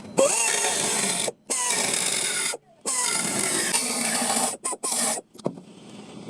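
Power tool working the car's sheet-metal body panel in repeated bursts of about a second or more, each switched on and cut off sharply.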